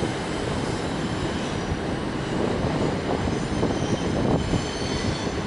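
Passenger train running, heard from inside the carriage: a steady rumble of wheels and track with faint, steady high-pitched whining tones over it.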